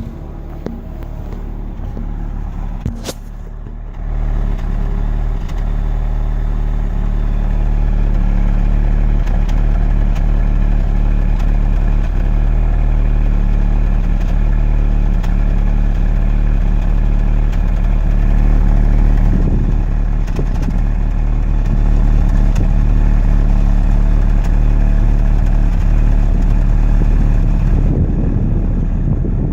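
VW Golf Mk6 TSI petrol engine idling, heard at the exhaust, a steady low engine note that gets louder about four seconds in. The car shakes at this idle, which the owner suspects is a misfire.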